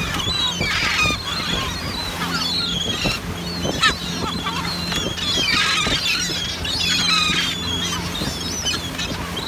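A flock of gulls calling loudly and continuously, many short squawks overlapping, over a steady low hum from the boat's engine.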